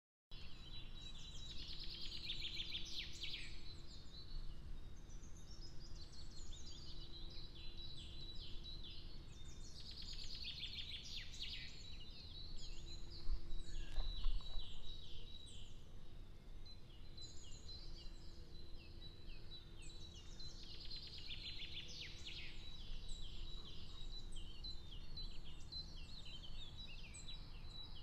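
Wild birds singing in trees and shrubs, with a loud burst of song every eight to ten seconds and quieter calls in between, over a steady low rumble. A dull thump comes about halfway through.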